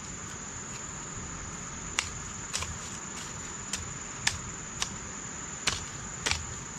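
Steady high-pitched insect drone, with irregular sharp knocks about every half second to a second over it, the loudest sounds present.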